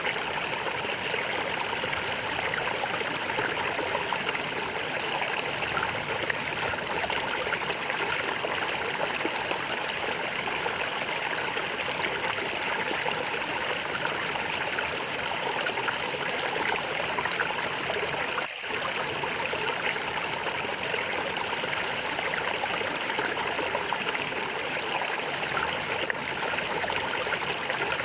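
Stream water flowing and gurgling in a steady rush, with a momentary drop in level about two-thirds of the way through.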